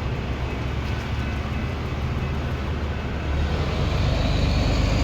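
Vehicle engine rumble and road noise, growing louder about three seconds in as a vehicle passes close by.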